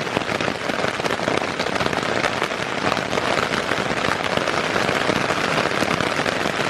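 Heavy rain pouring down: a dense, steady patter of countless drops.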